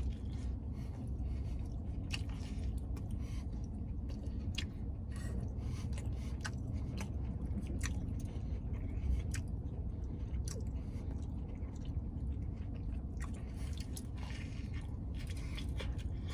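A man biting into and chewing a burrito, with many small wet clicks and mouth sounds, over a steady low hum.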